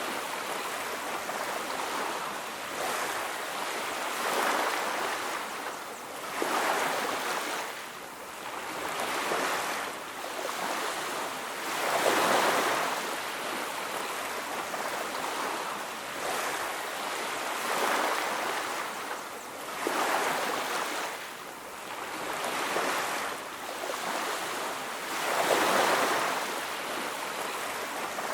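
Ocean waves breaking on a beach, a steady wash of surf that swells and recedes every few seconds as each wave comes in.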